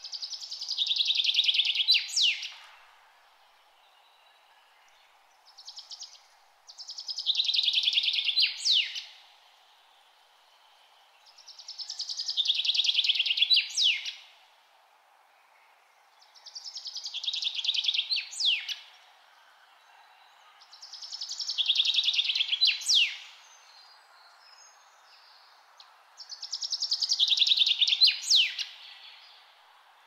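A songbird singing the same song six times, about every four to five seconds. Each song is a fast, high trill lasting about two seconds and ending in a sharp sweeping flourish, over a faint steady background hiss.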